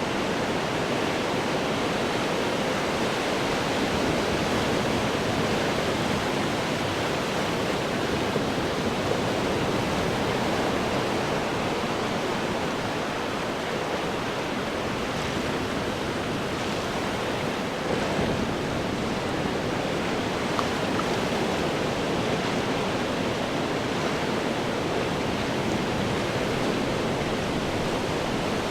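Ocean surf breaking on rocks: a steady roar of churning water that swells and eases only slightly.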